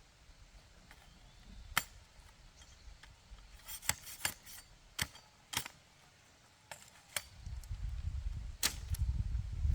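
A series of about eight sharp, irregularly spaced knocks and clicks, like tool strikes, with a low rumble coming in near the end.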